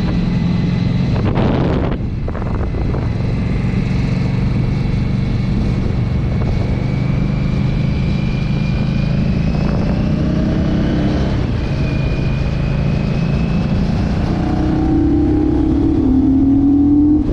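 Motorcycle engine running steadily on the move, its pitch rising near the end as it speeds up.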